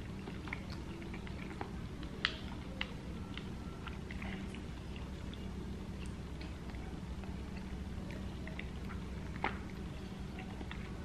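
Close-miked eating sounds: soft wet chewing and small mouth clicks as a man eats mashed potatoes and meatballs, over a steady low hum. A sharper click about two seconds in and another near the end.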